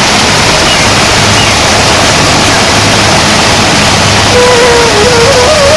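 Heavy rain pouring steadily. A wavering melody line comes in faintly over it near the end.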